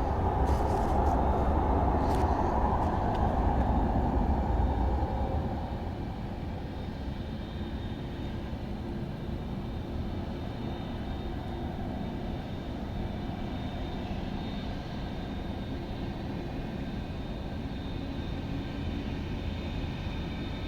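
Jet engines of a Boeing 787-8 Dreamliner at takeoff power. The sound is loudest for the first five seconds or so, then eases to a steady, quieter drone.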